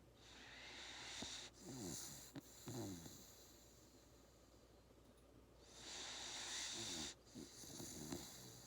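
Labrador Retriever puppy snoring faintly in its sleep: two slow breaths, the second starting about halfway through, each a wheezy hiss with a low fluttering snore near its end.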